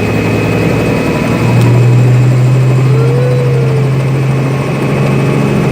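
Helicopter engine and rotor running: a loud, steady low drone that steps up slightly in pitch and gets louder about a second and a half in.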